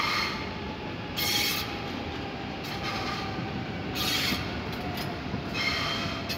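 A train rolling through the station with repeated short bursts of high wheel squeal, about five in all, over steady rolling noise. A faint whine falls slowly in pitch underneath.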